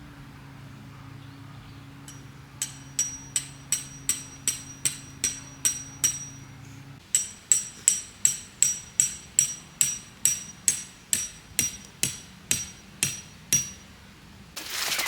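A hammer driving a metal tent peg into the ground, steady strikes about two and a half a second with a ringing clink on each. There is a short pause partway through. A brief rustle comes near the end.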